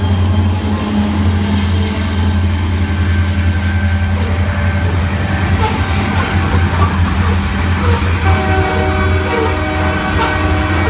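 Diesel-hauled freight train passing close by: a steady low engine drone over the rumble of wheels on rail. About eight seconds in, a steady chord of several higher tones joins it.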